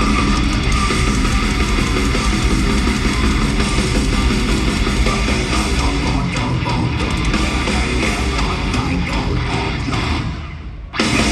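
Heavy metal band playing loud and live, with distorted guitars and drums. Near the end the sound drops away for about a second, then comes back in abruptly.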